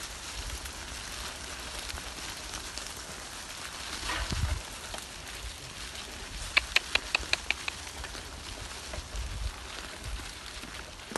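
A bird gives a quick run of about eight sharp, high calls lasting about a second, over a steady rustling hiss of forest ambience.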